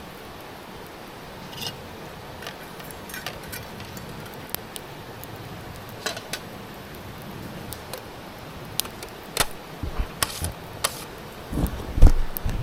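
Sporadic small clicks and clinks over a steady low background, with a few louder soft knocks near the end.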